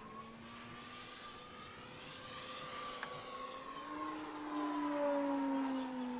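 Electric motor and propeller of an OMP Hobby Bushmaster RC plane in flight on a 6S pack, a steady pitched whine. It grows louder and rises in pitch about four seconds in, then falls away slightly as the plane passes.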